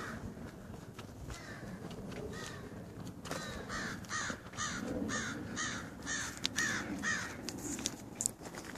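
A bird calling, a run of about eight calls in a row at roughly two a second, beginning about three seconds in, with a couple of fainter calls before it.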